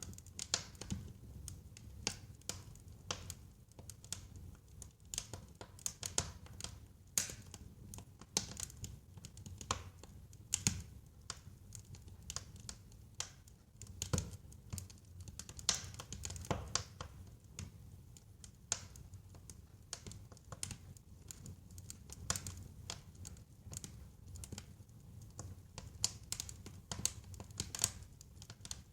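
Wood fire in a fireplace crackling, with irregular sharp pops and snaps over a low steady rumble of burning.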